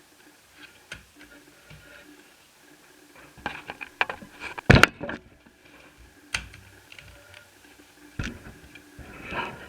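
Sharp plastic clicks and snaps at irregular intervals as the netbook's keyboard is pried and lifted out of its case, the loudest snap about halfway through.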